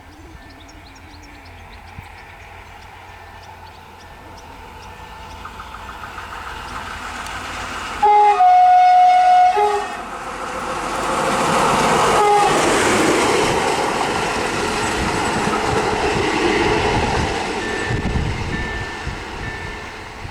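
PKP SM42 diesel locomotive running light past at speed. It approaches with a rising rumble, sounds one horn blast about 1.7 s long roughly eight seconds in, then passes close with engine and wheel noise that slowly fades.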